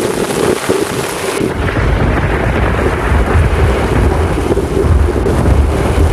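Heavy rain pouring steadily in a thunderstorm. About a second and a half in, a long low rumble of thunder comes in under the rain and lasts until near the end.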